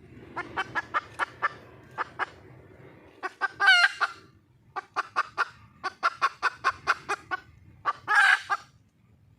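Red junglefowl hen calling to attract a mate: runs of quick, sharp clucks, about four or five a second, broken twice by a longer, louder cackling call, once near the middle and once near the end.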